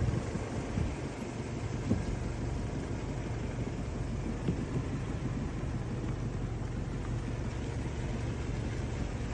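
Steady low rumble of a car on the move, with a few small knocks in the first two seconds.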